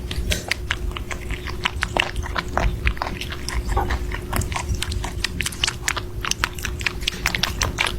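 A pet chewing and crunching food close to the microphone: a dense run of irregular crunches, over a steady faint hum.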